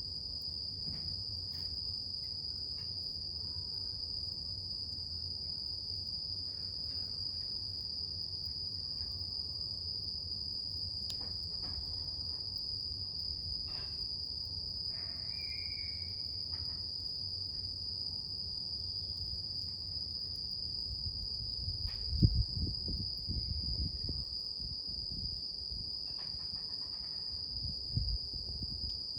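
A campfire burning with a low rumble and scattered crackles, including one sharp loud pop about two-thirds of the way through and a few smaller pops near the end. Over it, insects keep up a steady high-pitched trill.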